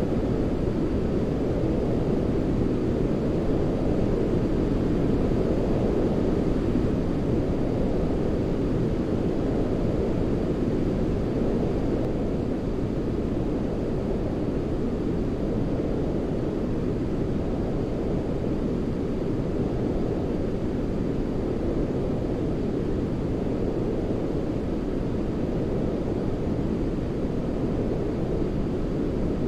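Baby-sleep white noise: a steady, deep rushing hiss, with most of its weight low down and little treble, like the drone inside an airliner cabin, unbroken and with no rhythm.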